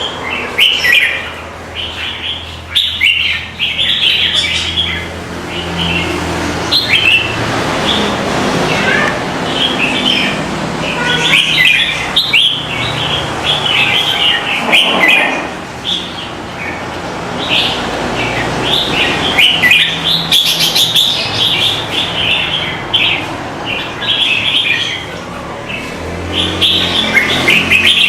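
Birds chirping: many short, high-pitched chirps in quick succession, over a low steady hum.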